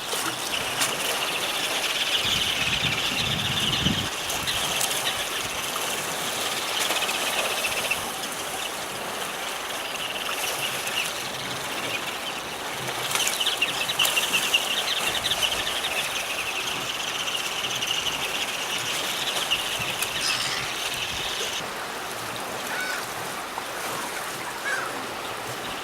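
Ruddy turnstones giving a fast, high twittering chatter in long runs, stopping and starting again, over a steady hiss of outdoor background noise.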